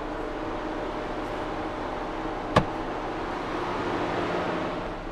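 Steady hum of a car running, with one sharp click about two and a half seconds in and the hum swelling slightly near the end.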